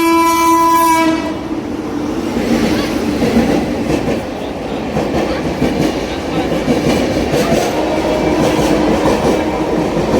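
An Indian Railways train's horn blows a steady held note that cuts off about a second in. After it comes the loud running noise of the passing train, its wheels clicking over the rail joints.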